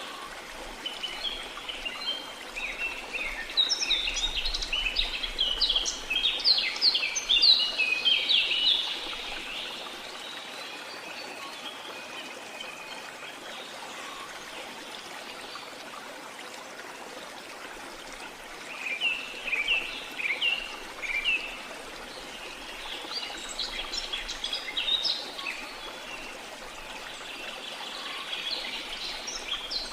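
Rainforest ambience: a steady wash of running water under bursts of many short, chirping bird calls, busiest in the first third and again towards the end, with a quieter stretch of water alone in the middle.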